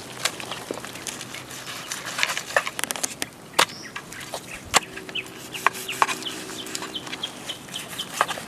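Irregular sharp cracks and snaps, with a quick run of short, high bird chirps in the middle.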